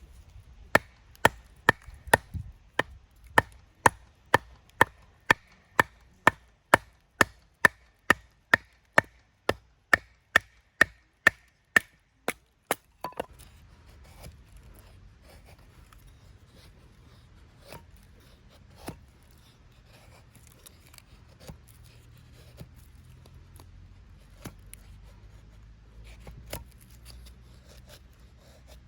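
Steady chopping, about two sharp strokes a second for roughly twelve seconds, then stopping, with only a few scattered light knocks afterwards.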